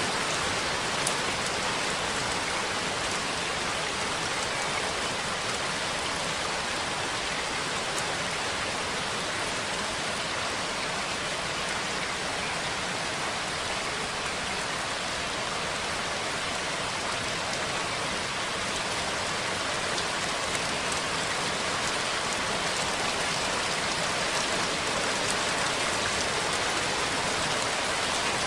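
Steady rain falling: an even, unbroken hiss of rain with a few faint individual drop ticks.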